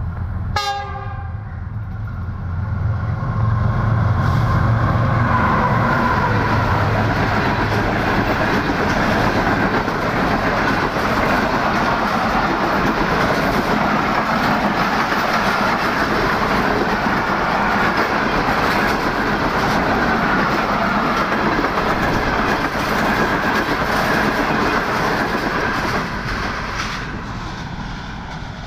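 A diesel-hauled passenger express running through a station at speed. A short horn note sounds about half a second in, and the locomotive's heavy engine rumble passes in the first few seconds. A long rake of coaches then rattles and clatters over the rail joints, fading away near the end.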